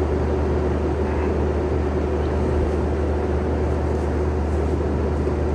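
Compact track loader's engine running steadily at an even speed, a constant low drone with a steady hum.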